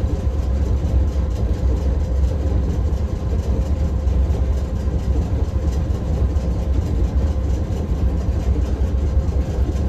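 Nagasaki Electric Tramway streetcar, a steady low rumble heard from inside the car.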